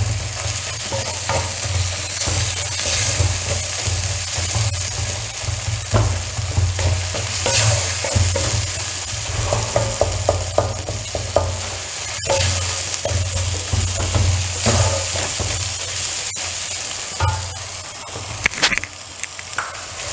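Onion and tomato masala sizzling in coconut oil in a kadai, stirred with a spatula that scrapes and clicks against the pan now and then. The mixture is being sautéed until it wilts and browns before the spice powders go in.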